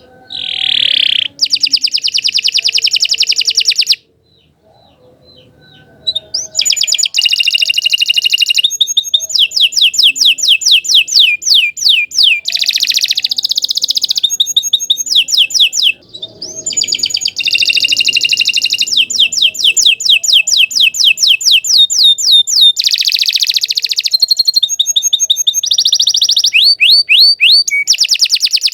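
Domestic canary singing long, rapid trills of repeated high notes. It falls silent about four seconds in and resumes about two seconds later with more long trills.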